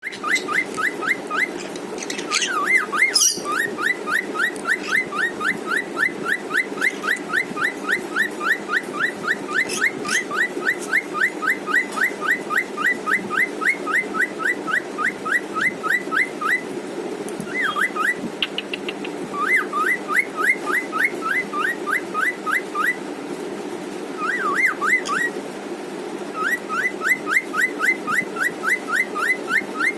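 Cockatiel singing: long strings of short, quickly repeated rising whistles, about three or four a second, broken a few times by pauses and twisting notes.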